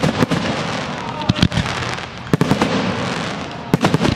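Fireworks display: aerial shells bursting in sharp bangs about every second, several in quick pairs, over a continuous crackle and hiss of burning stars.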